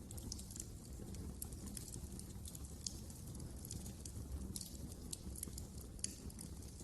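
Wood fire crackling in a fireplace: frequent small irregular pops and snaps over a low steady rumble of the flames.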